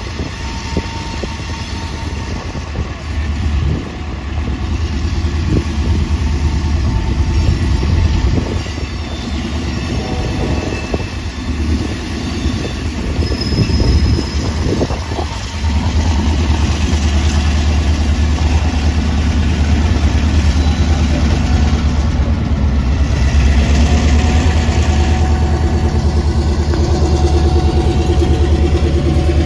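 Diesel locomotive running with a steady low rumble, growing louder about halfway through, with a few knocks from the train.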